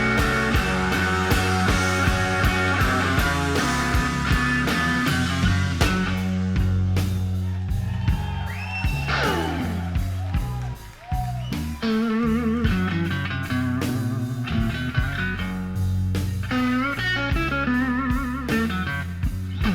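Live electric blues guitar solo over bass and drums in a slow blues, with bent, wavering notes. About nine seconds in, a note slides steeply down in pitch, the playing drops away briefly, then more bent notes follow.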